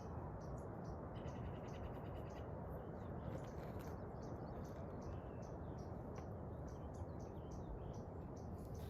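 A small animal or bird giving a steady series of short, high chirps, about two a second, over a constant rushing background.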